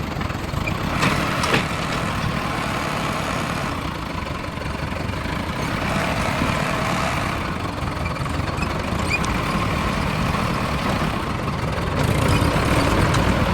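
Diesel tractor engine running steadily, with two short knocks about a second in; it grows louder near the end.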